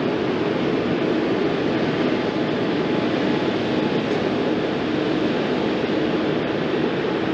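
Steady jet-engine roar from an Airbus A350-900's Rolls-Royce Trent XWB turbofans, holding an even level, with faint steady tones in the noise.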